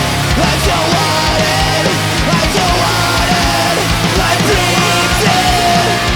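Punk rock song played by a full band: drums keep a steady fast beat under loud electric guitars and bass.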